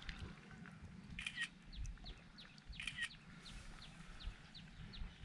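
Birds calling: a short bright phrase repeats about every one and a half to two seconds, with quick short chirps, about three a second, through the middle and later part, over a faint low rumble.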